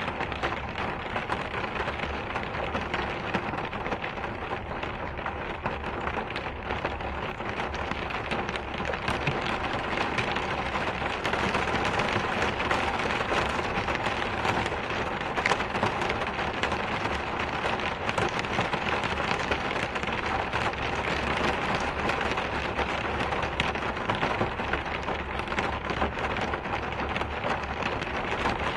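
Steady rain: a dense, even hiss of falling rain with a constant patter of drops on a surface.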